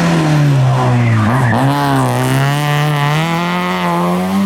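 Rally car engine coming off the throttle, its note falling for about a second, then pulling hard with the pitch climbing steadily as it accelerates away.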